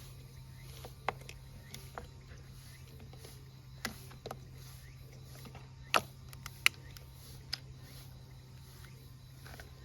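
Scattered sharp clicks and knocks, the loudest about six seconds in, over a steady low hum.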